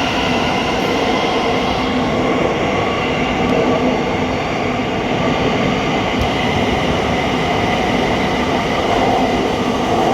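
Thameslink Class 700 electric multiple unit running through the platform, with a steady motor whine over loud, continuous wheel and rail noise.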